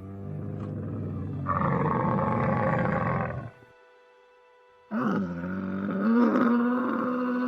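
Camel calling: two long, low, rough calls. The first runs about three and a half seconds; the second begins about five seconds in and wavers in pitch.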